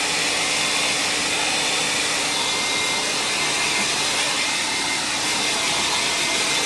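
Hand-held hair dryer running steadily, a continuous rush of blown air with a faint steady hum, used to dry wet paint in an art journal.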